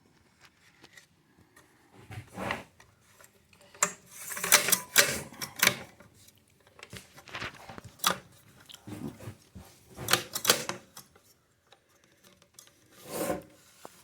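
Handling noise from a pneumatic round-head framing nailer: irregular clicks, knocks and rubbing, loudest in a cluster of rapid clatter a third of the way in and again in sharp knocks later on.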